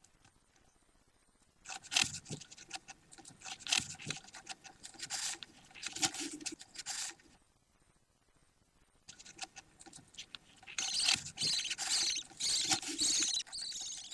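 Budgie chicks making rapid, raspy, high-pitched chattering calls in two bouts of several seconds each, with a short lull between them.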